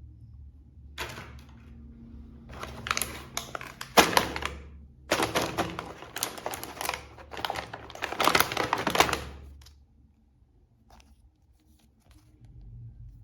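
Plastic clicking, knocking and rustling from action-figure toys and their packaging being handled, in a dense run that stops near the end.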